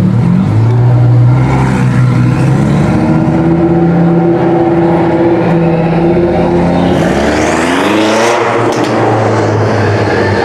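Performance car engine running at a steady, moderate speed, then revving up hard about seven seconds in with a quick rising pitch as the car accelerates.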